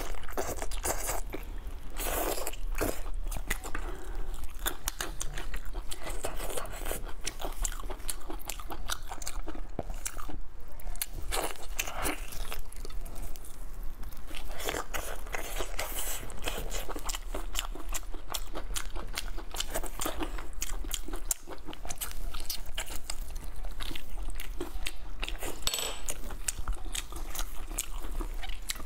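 Close-up eating sounds: biting and chewing sticky, gelatinous braised meat coated in chili, heard as a continuous run of wet clicks and smacks from the mouth over a low steady hum.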